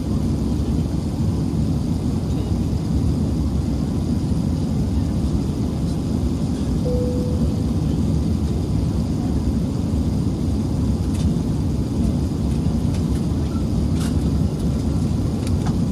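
Steady low rumble inside the cabin of an Airbus A380-861 in flight, from its Engine Alliance GP7200 engines and the airflow along the fuselage, with a brief short tone about seven seconds in.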